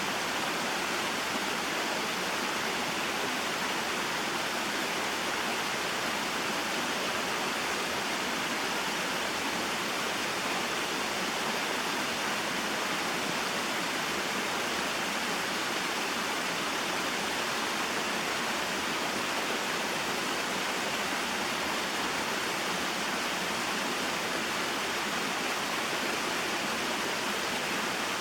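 Small waterfall and mountain stream flowing: a steady, even rush of water.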